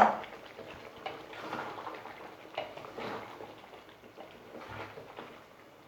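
A spatula or spoon stirring chicken and potatoes in a pan of masala, with faint scrapes and light knocks against the pan.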